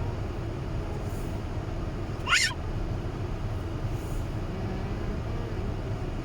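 Steady low rumble of an automatic car wash heard from inside the car's cabin, with a brief high squeal that rises in pitch about two seconds in.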